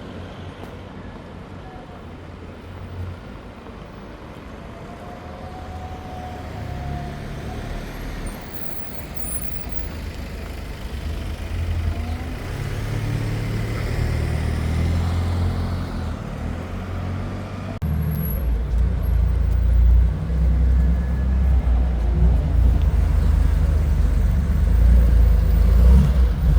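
Street traffic with a car engine running close by, its low rumble growing steadily louder and jumping up abruptly about two-thirds of the way through.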